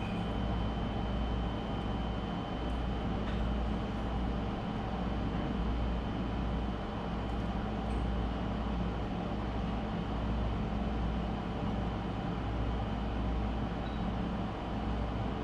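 Steady low mechanical hum and rumble with a thin, constant high whine over it.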